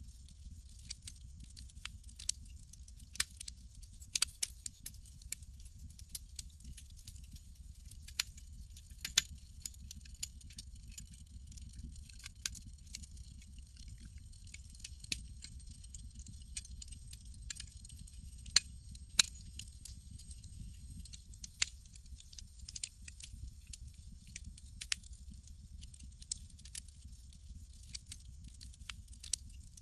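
Campfire crackling: irregular sharp pops and snaps, a few louder ones, over a faint hiss and a steady low rumble.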